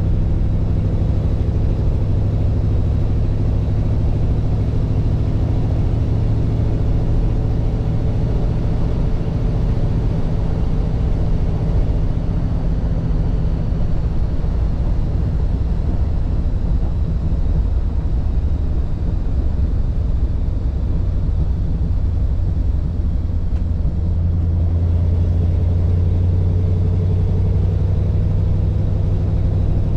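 1948 Mercury's 239 cubic inch flathead V8 running, a steady low engine note with road noise. The note thins out in the middle and comes back stronger and lower a few seconds before the end.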